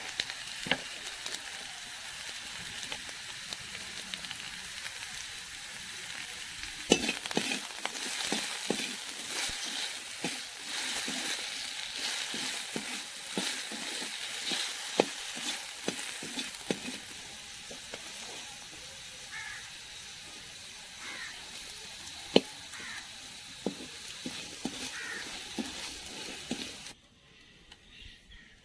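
Potato sticks sizzling as they fry in a metal wok, with a metal spatula scraping and knocking against the pan as they are stirred. The sizzling cuts off suddenly near the end.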